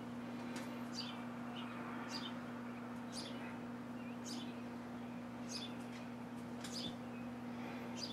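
House sparrows chirping: short, sharp chirps that drop in pitch, coming roughly once a second, over a steady low hum.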